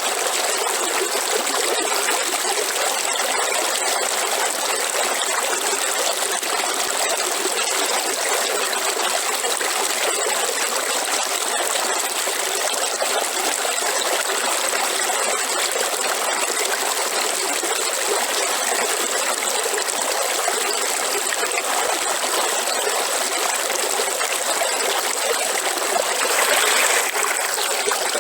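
River water flowing steadily over rocks, a continuous trickling, babbling rush, with a brief louder surge near the end.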